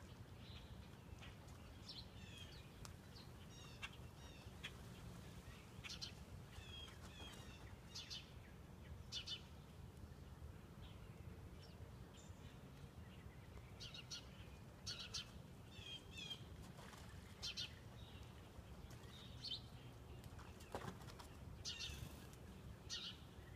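Small birds chirping and singing: repeated short chirps and warbled notes with occasional sharp calls, over a steady low hum.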